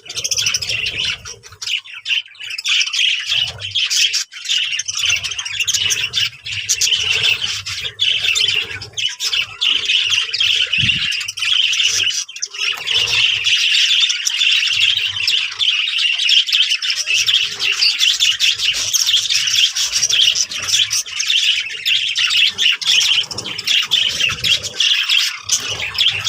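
Many small birds chirping and squawking together in a dense, continuous chatter.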